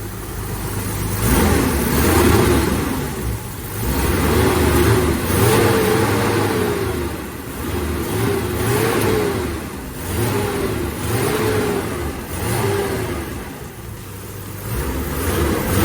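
BMW E36 M3 Evo's straight-six engine being blipped repeatedly, the revs rising and falling again about once every second or two, just after new spark plugs were fitted to cure a misfire and the owner listens for whether it still misses.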